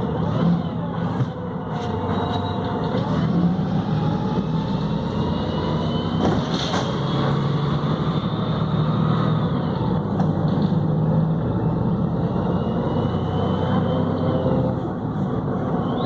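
Volvo B7RLE bus running under way, its diesel engine and Voith automatic gearbox giving a steady engine sound with a high whine that rises and falls in pitch twice.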